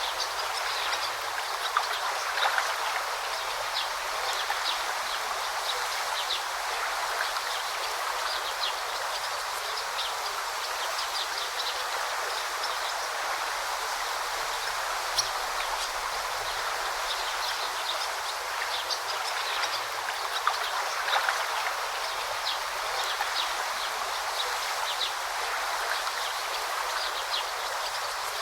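A forest river babbling steadily, with many short, high bird chirps dotted through it.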